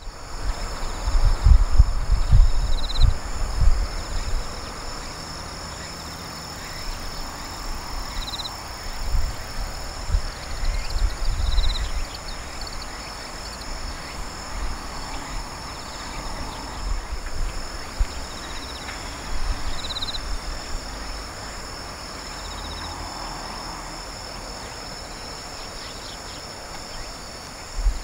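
Insects chirring in steady high tones, with a few short chirps now and then. Wind rumbles on the microphone in gusts, strongest in the first few seconds.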